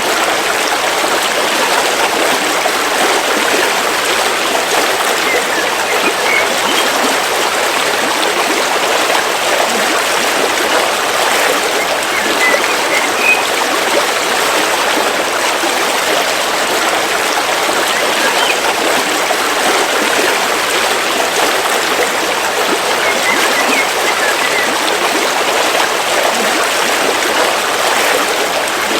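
A river flowing steadily, an even babble of running water, with a few faint high bird chirps now and then.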